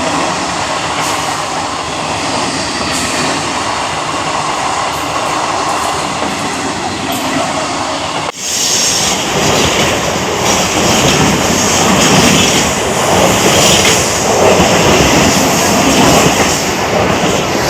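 Mumbai suburban local EMU train running on its rails, a steady rumble and hiss; it breaks off about eight seconds in and comes back louder and hissier.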